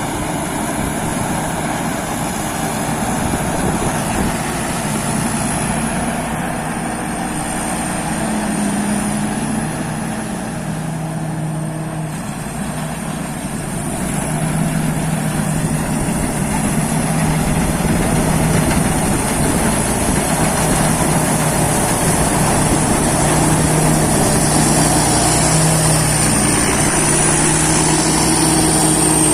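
A Peng Charoen combine harvester running steadily at work. Its engine hum shifts slightly in pitch, with a thin high whine that slowly wavers above it.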